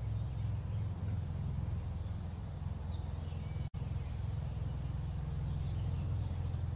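A steady low rumble, with a short high chirp repeating every couple of seconds; the sound cuts out for an instant a little past the middle.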